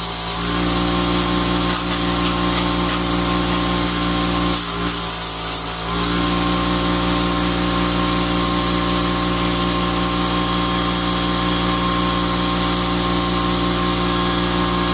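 Electric welding on a steel flue pipe: a steady buzzing hum with a hiss over it, changing in character about six seconds in.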